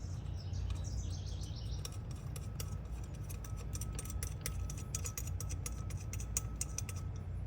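Small metallic clicks and ticks from hand tools and bolts being worked on an engine, over a steady low hum, with a brief high squeak falling in pitch in the first two seconds.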